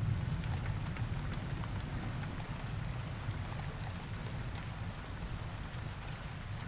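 Steady rain falling, a fine patter of drops, with the low rumble of a thunder roll dying away over the first second or two.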